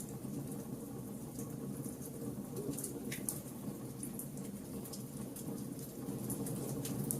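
Wood fire burning: a steady low rumble of flames with frequent sharp, irregular crackles and pops from the burning wood.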